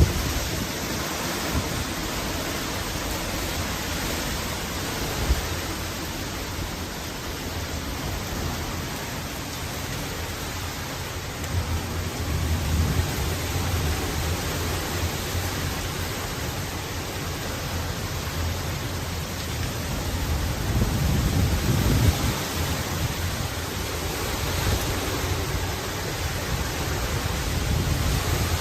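Severe thunderstorm: a steady rush of wind and rain, with low rumbling surges about twelve seconds in and again just past twenty seconds.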